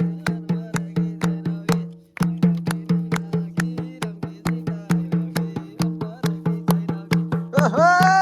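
Music: a drum beaten in a steady rhythm of about three to four strokes a second, each stroke ringing at a low pitch. The beat breaks off briefly about two seconds in, and a long held note joins near the end.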